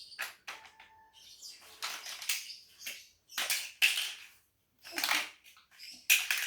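Plastic Lego bricks rattling and clattering as they are handled and sorted, in irregular bursts about half a second long.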